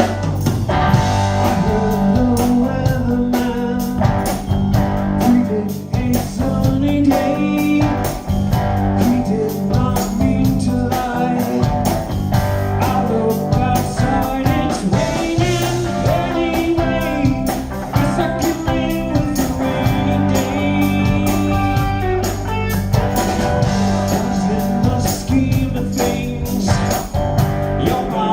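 Band playing a soft-rock song in rehearsal, with guitar, bass and drums keeping a steady beat.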